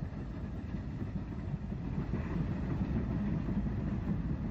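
Steam train running along the track: a steady low rumble of wheels and engine that grows slightly louder toward the end.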